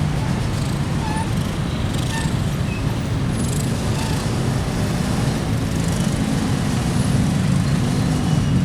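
A train passing close by, a steady low rumble that stays level throughout.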